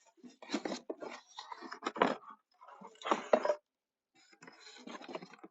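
Grill gear for a shichirin (the grill net and its packaging) being handled and unpacked: irregular rustling and clattering in short bursts, loudest a little past halfway, with a brief pause before softer rustling near the end.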